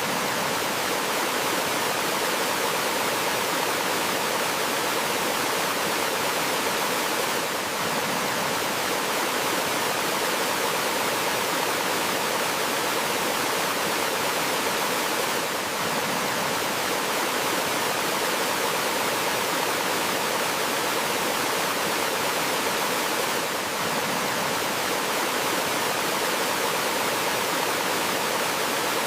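Flowing water rushing steadily over rocks in a mountain stream, a continuous, even rush with brief slight dips in level about every eight seconds.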